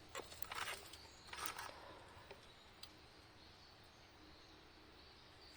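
A few faint, light clicks and rustles in the first couple of seconds, then near silence with only a low, even outdoor background.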